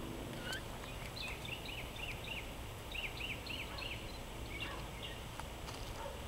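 A songbird singing two short runs of quick, repeated chirping notes over a low, steady background rumble.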